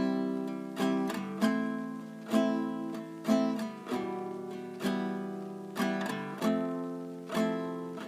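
Acoustic guitar strumming chords, about one strum a second, each chord ringing out and fading before the next.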